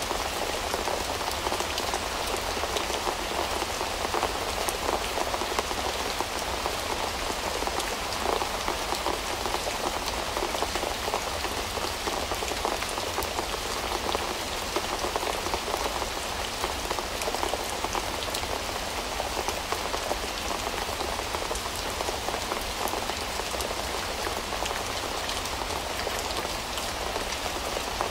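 Steady rain falling, with many small drops ticking individually over an even hiss.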